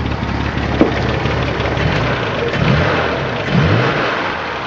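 A 1984 Ford Ranger's 2.8 V6 engine running at idle, with two short rises in pitch in the second half. The exhaust is just a pipe, so the truck runs loud.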